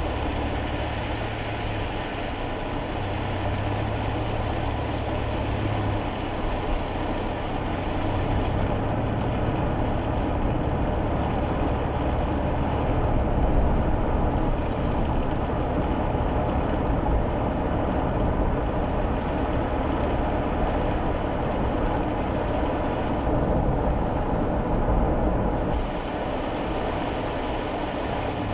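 Kei car cabin noise on a rainy drive: a steady low engine hum under continuous road and tyre noise from wet tarmac.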